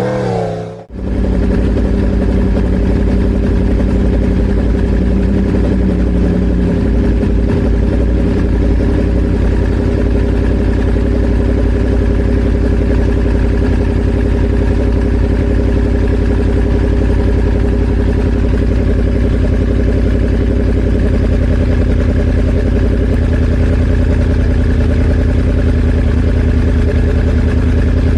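Inline-four sportbike engine idling steadily. The sound drops out briefly just under a second in.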